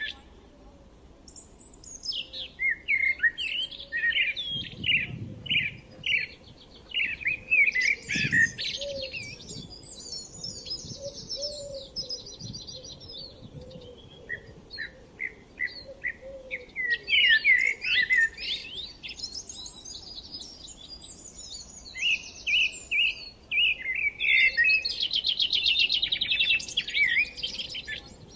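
Several songbirds singing, overlapping phrases of quick high chirps and rapid trills that come and go with short lulls.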